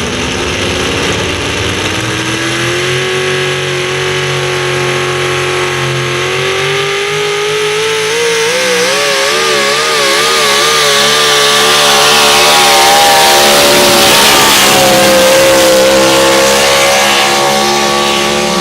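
Modified pulling tractor's engine at full throttle through a pull. The engine pitch climbs, wavers for a few seconds and holds high and loud, then cuts off suddenly near the end.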